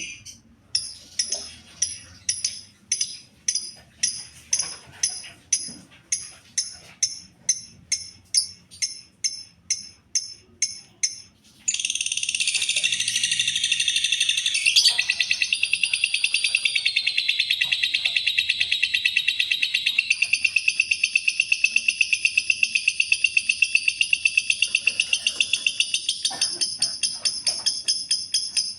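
Lovebird calling: a string of sharp high chirps, about two a second, which breaks about twelve seconds in into a long, unbroken, fast high-pitched chatter, the sustained "ngekek" song that lovebird keepers prize.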